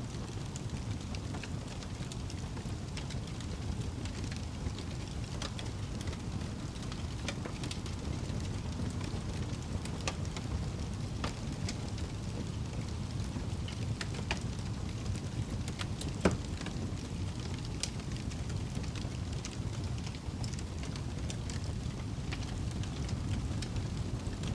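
Wood fire burning in a fireplace: a steady low rumble of the flames with scattered crackles and snaps, and one louder pop a little past the middle.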